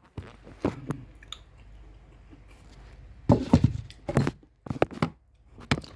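Close-up crunchy chewing of fried chicken: irregular crackling crunches, a few in the first second, then a louder run of them from about three seconds in.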